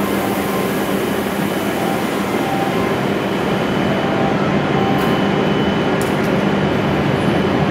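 Steady hum and hiss of a W7 series Shinkansen standing at the platform with its doors open, several steady tones over an even rush of noise, with a few light clicks in the second half.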